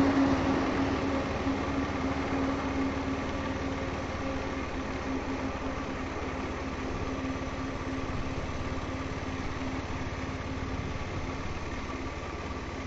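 Motorcycle engine idling steadily, while a louder noise dies away over the first few seconds.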